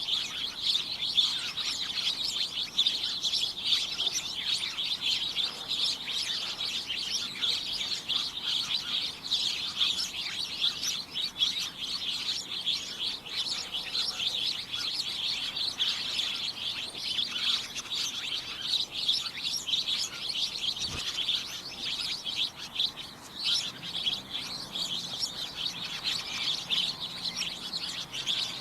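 Many small birds chirping at once in a dense, unbroken chorus of overlapping high tweets.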